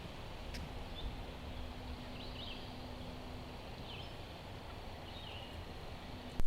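Steady rain noise in woodland, with a few short, faint songbird chirps scattered through it.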